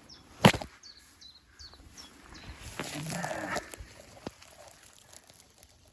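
Someone moving through undergrowth: a single sharp crack about half a second in, then light rustling and a smaller click near the end. A few short, high bird chirps sound faintly in the background.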